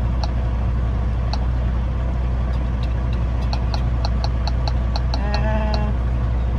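Semi-truck diesel engine idling steadily, heard from inside the cab. In the second half comes a quick run of sharp clicks, about four a second, and near the end a brief pitched sound.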